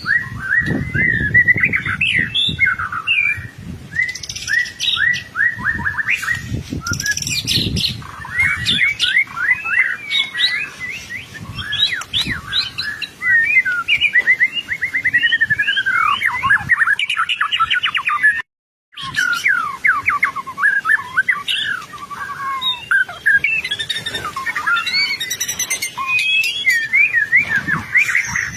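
White-rumped shama singing continuously in full voice: a fast, varied stream of rich whistles and trills, broken once by a brief sudden gap about two-thirds of the way through.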